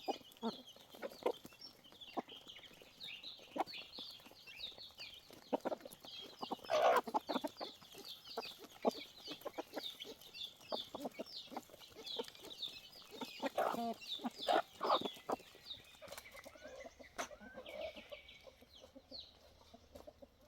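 Chickens clucking, over a continuous run of short high cheeps, with louder calls about seven seconds in and again around fourteen seconds in.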